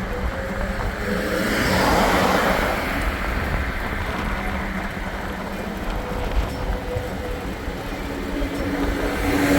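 A motor vehicle running: a steady low rumble with a swell of rushing noise about two seconds in.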